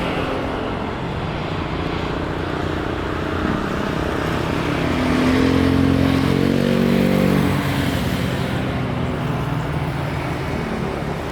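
Steady engine noise, with a louder pitched engine sound swelling about five seconds in and fading again about two seconds later.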